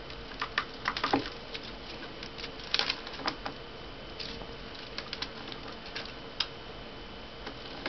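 Budgies bathing in shallow water: irregular small splashes and pattering, busiest about a second in and again near three seconds.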